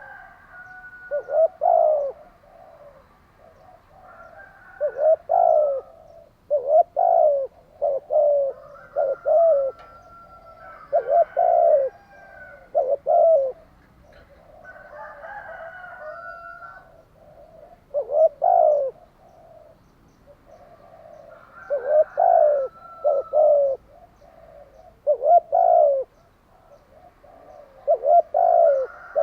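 Spotted dove cooing over and over in short phrases of two or three low notes, with fainter, higher calls from other birds between the phrases and a lull in the cooing about halfway through.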